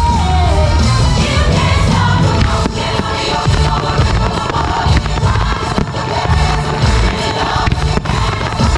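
Loud music with singing, over repeated firework shell bursts and booms.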